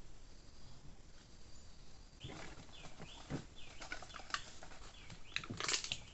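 A bird calling, a quick series of short high chirps repeated about every half second, starting about two seconds in, with a few sharp knocks among them.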